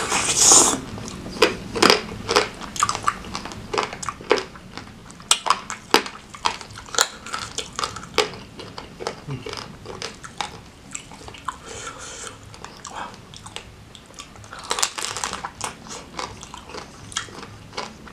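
A person biting and chewing seafood in spicy Padang sauce close to the microphone, with many irregular crunches and clicks throughout and two longer, noisier stretches: one at the start and one about fifteen seconds in.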